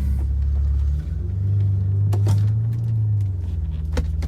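BMW 850's 5-litre V12 running at low speed. Its note drops about a second in, then rises and falls again as the car moves off in gear. There are a couple of short knocks near the middle and near the end.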